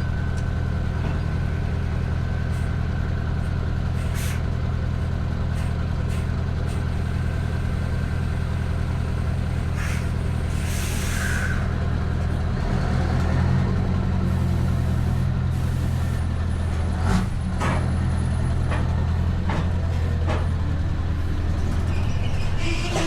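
Scania V8 truck engine running steadily through an open-pipe exhaust, with a deep, even note that swells slightly about halfway through. A short hiss comes about ten seconds in.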